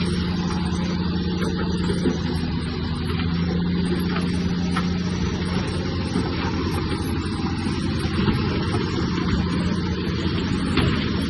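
Heavy earthmoving machine's diesel engine running steadily, with a few faint knocks.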